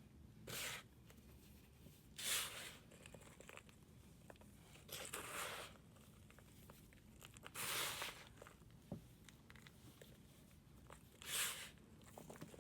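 Five short, crunchy scraping strokes, each about half a second long, as a block of reformed powder such as chalk or cleaning powder is worked apart.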